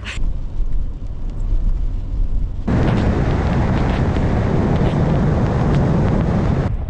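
Steady low rumbling noise, then about two and a half seconds in a sudden, much louder rushing noise that cuts off abruptly near the end.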